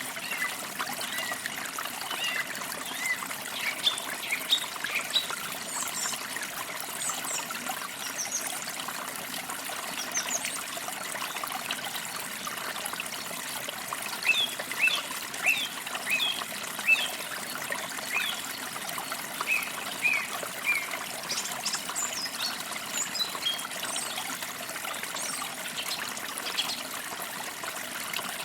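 A forest stream trickling and babbling steadily, with songbirds singing short chirps and whistles over it in bouts, busiest near the start, in the middle and toward the end.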